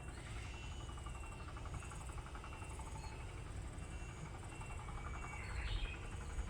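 Insects chirping outdoors: short, evenly repeated high chirps over a fast pulsing trill, with a steady low rumble underneath. A single brief rising call comes about five and a half seconds in.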